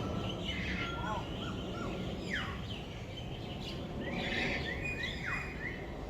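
Several birds chirping and calling, short high notes and trills, with two quick falling whistles, over a steady low background hum.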